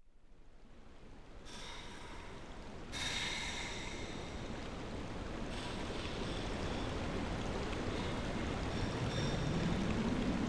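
Opening of an ambient instrumental track: a rushing, rain-like wash of noise fades in from silence and grows steadily louder. Faint sustained high tones join about one and a half seconds in and again at three seconds.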